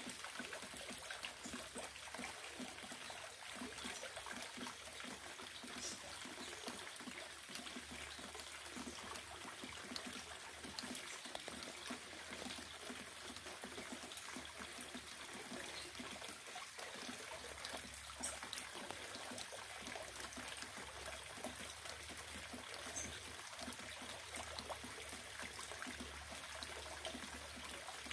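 Rain falling steadily: a continuous even hiss dotted with many small drop ticks.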